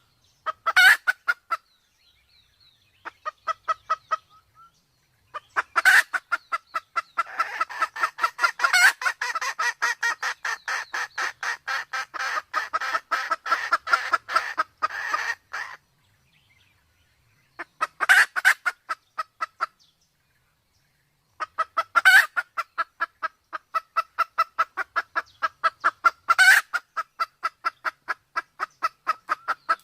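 Red junglefowl clucking in fast runs of short, evenly spaced calls, several a second, broken by brief pauses: the chatter of a hen in breeding condition, with a few louder, sharper calls mixed in. From about 7 to 15 seconds in, a second bird's calls overlap and the chatter thickens.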